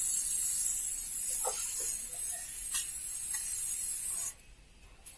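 Aerosol spray paint can spraying in one steady hiss that stops suddenly a little over four seconds in.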